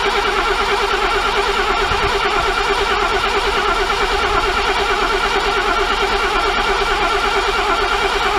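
Mercedes W114 starter motor cranking the rebuilt engine in a long, steady, fast-pulsing run without it catching: no fuel is reaching it because the fuel pump wire was left off.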